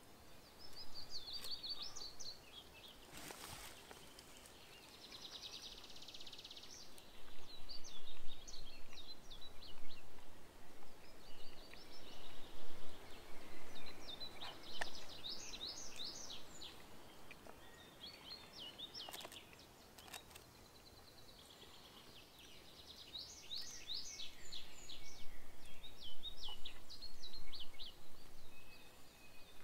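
Songbirds singing: a series of short, high-pitched phrases of quick chirps and trills. There are a couple of brief rustles in between.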